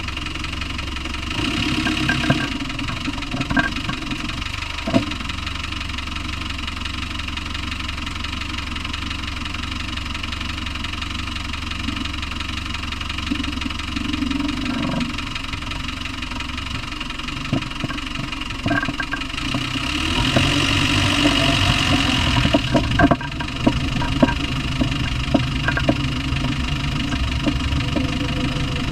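Land Rover 300Tdi 2.5-litre four-cylinder turbodiesel running steadily, with a sharp knock now and then, more often in the second half, where the engine also gets somewhat louder. The knock is the unexplained noise the owner is asking about.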